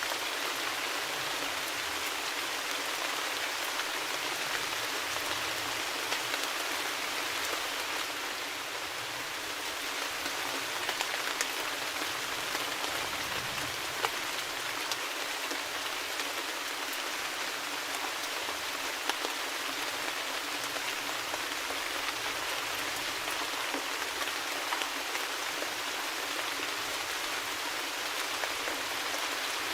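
Steady rain falling, a dense even hiss with scattered louder drops ticking on a surface.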